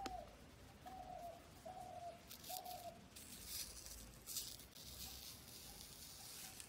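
A bird calls four times in short, even-pitched notes during the first three seconds. After that, a small plastic spoon scrapes and scoops through soft ice cream in a plastic cup.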